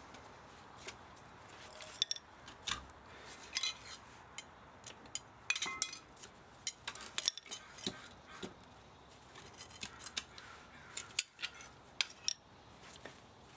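Hand tools and metal parts of an old spa motor being worked during scrapping: irregular sharp metallic clicks and clinks, several a second at times, with short pauses between.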